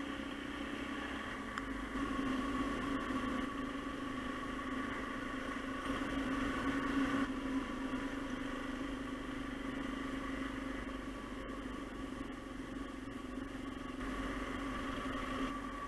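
Motorcycle engine running steadily under way, a little louder for a few seconds about two seconds in before easing back.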